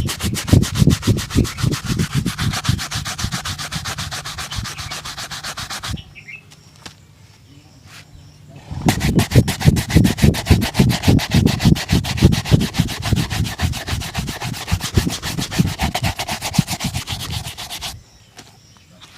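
Fast, even rubbing strokes of shoe-shine buffing on a leather shoe. They stop for a few seconds about six seconds in, then resume, and pause again near the end.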